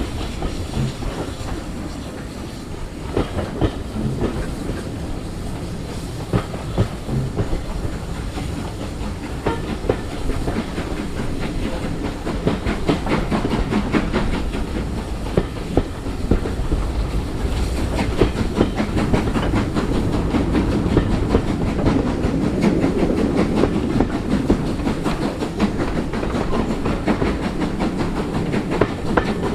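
Train running on rails, its wheels clicking rapidly over the rail joints over a steady rumble, growing louder in the second half.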